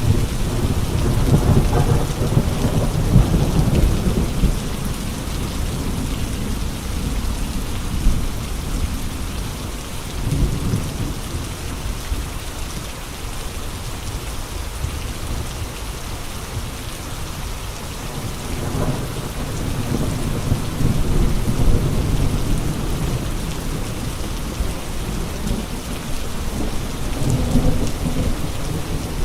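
Steady heavy rain, a constant hiss, in gusty wind, with deep rumbling swells that build and fade four times.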